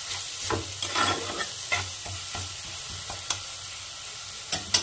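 Onion, garlic and ginger pastes sizzling in hot oil in a kadai while a spatula stirs them, giving a steady hiss broken by irregular clicks and scrapes of the spatula on the pan, with a sharper knock near the end. The paste is being fried down until its raw smell goes.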